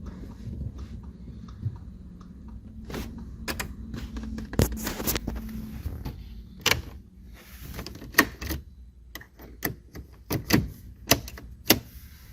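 Irregular sharp clicks and knocks of small hard parts being handled, coming in a loose series, with the loudest knocks in the second half.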